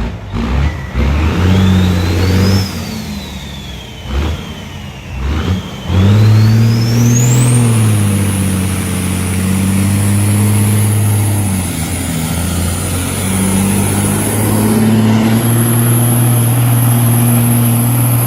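Diesel truck engine pulling hard on a sled pull. A few short rev bursts come first, then from about six seconds in the engine runs under sustained heavy load. A high whistle climbs steeply and then holds near the top of the range.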